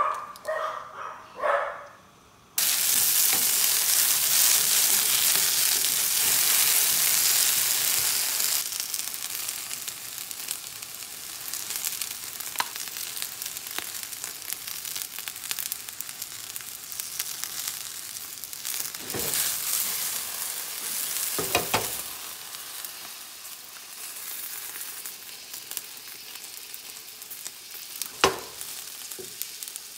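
Cut okra frying in a nonstick pan: a sudden loud sizzle starts about two seconds in as avocado oil hits the hot pan, easing after several seconds into a steady, quieter sizzle. A few light clicks sound over it.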